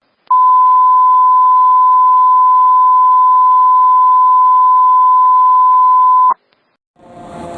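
A steady, loud electronic beep tone, one pure pitch held for about six seconds before it cuts off suddenly. Near the end, vehicle noise fades in with slowly falling pitched tones.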